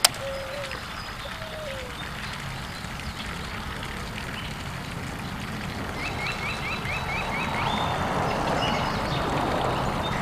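Birds calling outdoors over a steady low rumble: short wavering calls in the first two seconds, and a quick run of about seven high chirps around six seconds in. A single sharp click right at the start.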